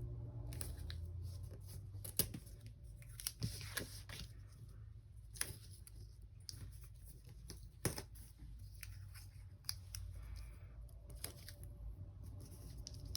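Paper washi tape being pulled, torn and pressed onto planner pages: scattered short tearing rustles and small clicks, the sharpest about two, five and a half and eight seconds in.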